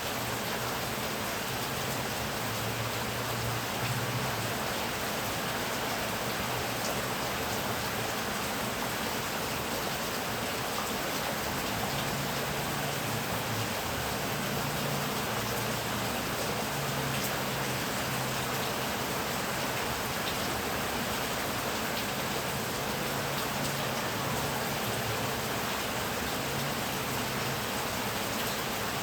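Heavy rain falling steadily, an even hiss without a break, with a low hum that comes and goes underneath.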